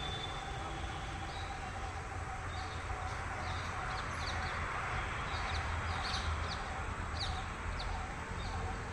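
Birds chirping in quick, short, high notes over a steady low rumble.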